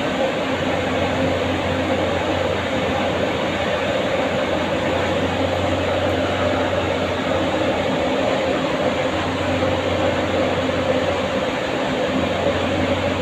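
Steady machine hum and rushing noise, level throughout, with a low drone and a few held tones.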